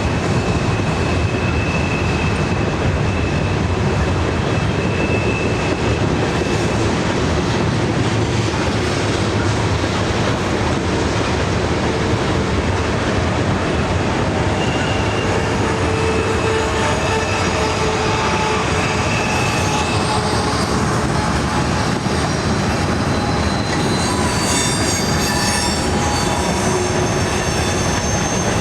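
Norfolk Southern train's cars rolling by steadily, with steel wheels squealing against the rails in thin high tones that come and go, several shrill tones together near the end.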